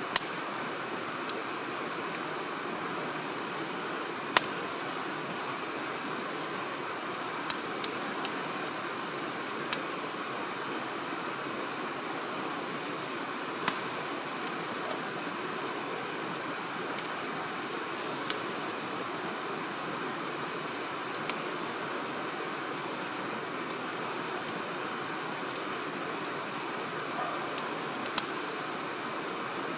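Wood campfire burning in a fire grill: sharp, irregular crackles and pops every second or two over a steady rushing hiss.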